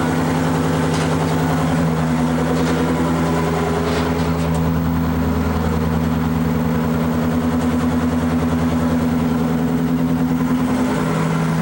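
Two-stroke Detroit Diesel 16V71 engine in a vintage Euclid off-highway dump truck running at a steady idle, its pitch shifting slightly near the end.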